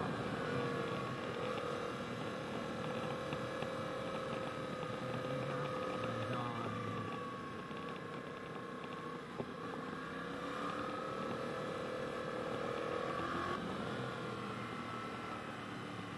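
Yamaha XSR700's 689 cc parallel-twin engine running at a steady cruise, its note rising and falling with the throttle and dropping suddenly twice, under a constant hiss of wind and road noise.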